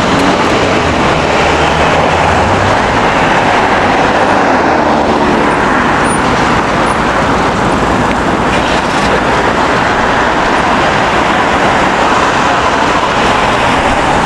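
Steady road traffic noise on a city street, with vehicles passing.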